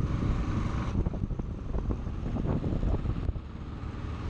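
Wind rumbling and buffeting on the microphone of a moving motorcycle, with the Bajaj Pulsar NS160's 160 cc four-stroke engine running underneath. The hiss in the upper range drops away about three seconds in.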